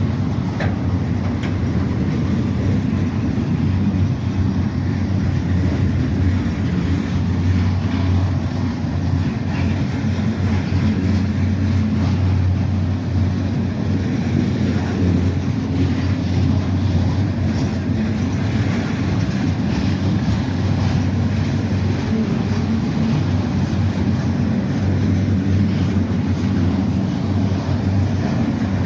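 CSX freight train passing, with a steady low rumble and hum that holds throughout.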